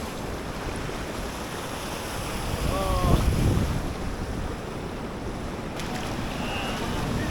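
Fast-flowing river water rushing steadily, with wind buffeting the microphone. A short voice sounds about three seconds in.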